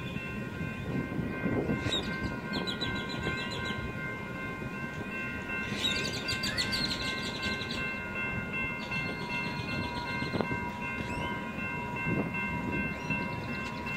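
Union Pacific freight train's last cars rumbling away from a level crossing while the crossing's electronic warning bell rings steadily. Four short bursts of high chirping come over the top, about every three seconds.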